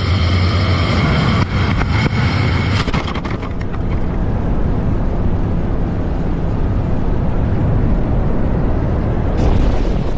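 Light aircraft engine droning with a steady pitch. About three seconds in, the steady tone gives way to a rough, noisy rumble.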